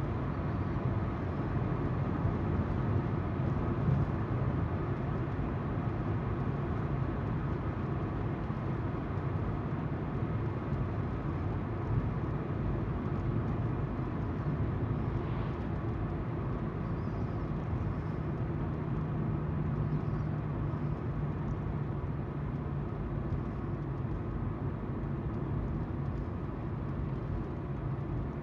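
Car driving along a road: steady tyre noise with the low hum of the engine.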